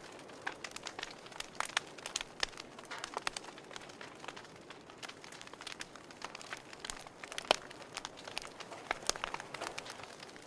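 Wood fire crackling in a fireplace: irregular sharp pops and snaps over a soft hiss of burning logs, with one louder pop about halfway through.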